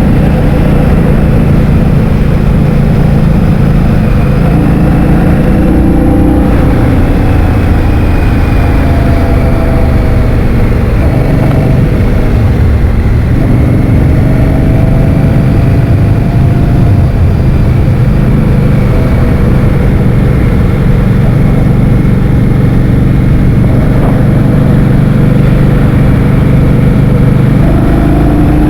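Heavy, constant wind noise on the microphone while riding a motor scooter. The scooter's engine runs underneath it, its pitch slowly rising and falling as the speed changes.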